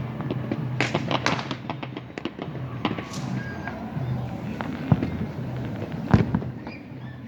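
Fireworks and firecrackers going off: a dense run of sharp pops and cracks throughout, with two heavier booms about five and six seconds in.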